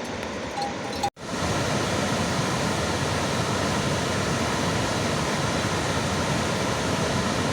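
Steady, loud hiss of heavy rain. It cuts out for an instant about a second in, then comes back louder.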